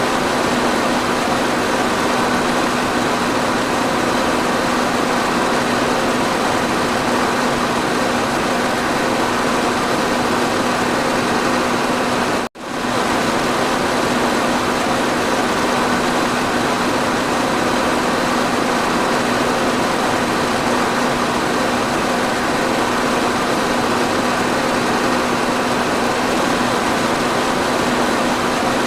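Electric fan running steadily: an even rushing of air with a constant motor hum. About halfway through it cuts out for an instant and comes straight back.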